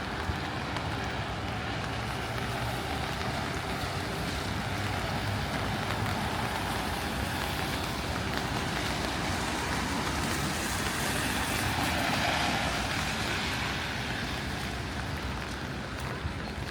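Road traffic on a rain-wet city street, a steady hiss of tyres and engines. One vehicle passes about ten seconds in, swelling and then fading.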